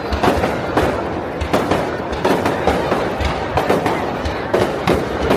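Fireworks display going off: a rapid run of bangs and crackles, several a second, over a continuous rumble of overlapping bursts.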